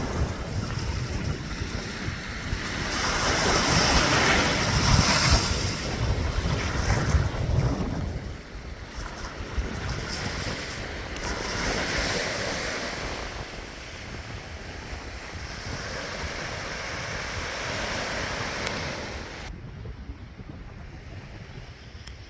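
Sea waves washing in and out, swelling and ebbing every few seconds, with wind buffeting the microphone.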